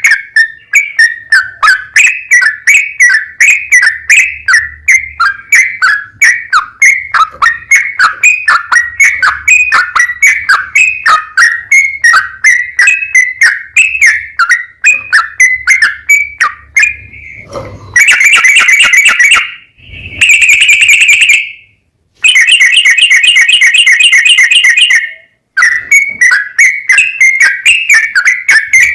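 Yellow-vented bulbul (trucukan) song: a fast run of short whistled notes, about three a second. From about 18 seconds in come several dense, buzzy trills with brief breaks, and the quick notes resume near the end.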